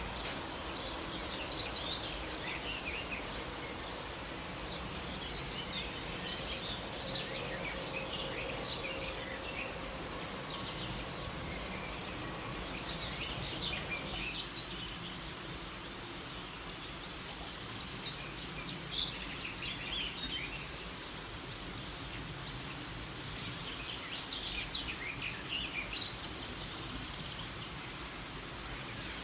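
Insects chirping, a high buzzing trill that comes back about every five seconds, with scattered short bird chirps over a steady background hiss.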